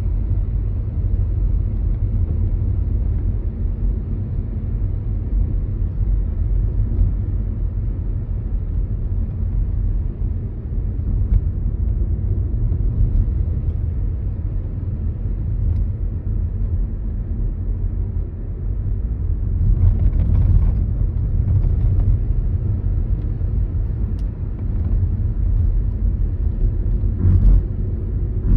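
Skoda Kamiq driving at low speed: a steady low road and tyre rumble, with a couple of brief sharper noises about twenty seconds in and again near the end.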